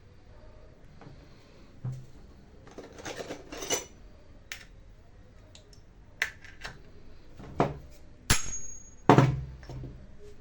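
Metal parts and tools clinking and knocking on a workbench in irregular handling sounds, with one sharp metallic hit about eight seconds in that rings briefly.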